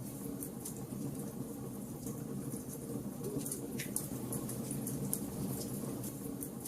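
Wood fire crackling in a fireplace: irregular sharp pops and snaps of burning firewood over a steady low rumble of the flames.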